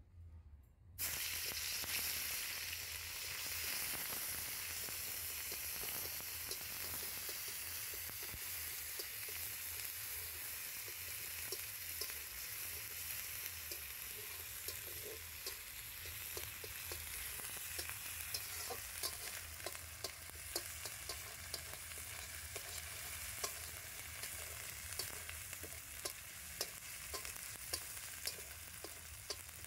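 Sliced onions dropped into hot oil in a metal wok start sizzling suddenly about a second in, and the frying sizzle then runs on steadily. From midway on, a metal spatula stirring them clicks and scrapes against the wok again and again.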